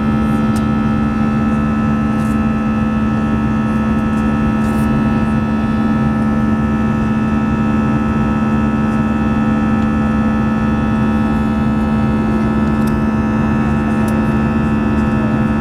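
Airbus A320 cabin noise in flight: the engines' steady drone, with a strong low hum and a rush of air underneath.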